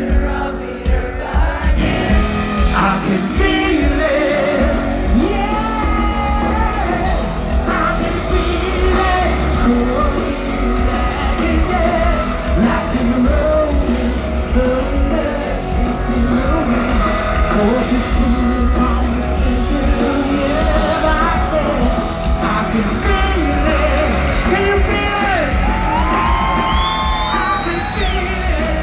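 A rock band playing live, with sung vocals over steady, heavy bass and guitars; several sliding notes come in near the end.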